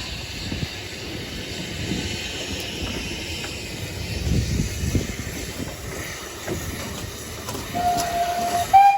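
Narrow-gauge train running, with a steady rumble and hiss. Near the end a short high tone sounds and steps up slightly in pitch, the loudest moment.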